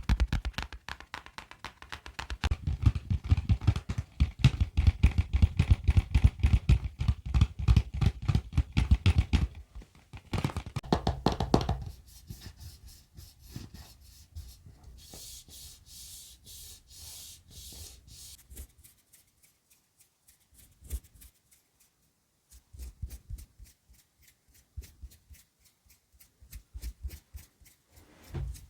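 ASMR finger tapping on objects. It starts as fast, dense tapping for about nine seconds, goes to a softer, hissy stretch a little past the middle, then thins out to scattered single taps.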